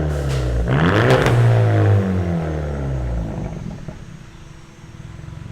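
Straight-piped 2017 Hyundai Elantra four-cylinder engine, resonator and muffler deleted with only the catalytic converters left, blipped once: the pitch climbs sharply under a second in, holds briefly, then falls back and settles into a quieter idle.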